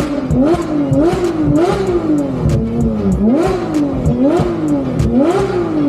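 A car engine revved in repeated throttle blips, about once a second. Each rev climbs sharply in pitch and then falls back more slowly.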